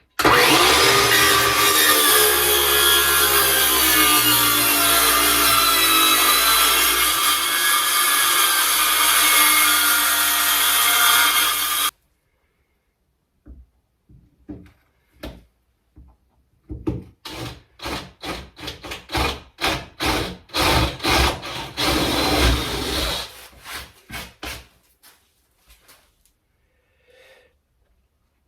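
Power saw cutting timber, its motor note sagging under load, then cutting off suddenly about twelve seconds in. Later comes a run of quick rasping strokes on wood, about three a second.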